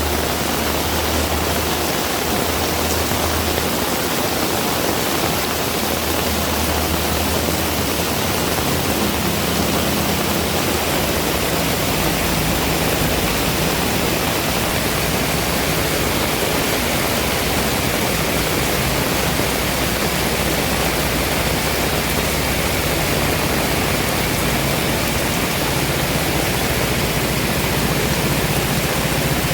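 Heavy rain falling steadily, a dense even hiss with no let-up, over a low rumble that shifts in pitch about ten seconds in.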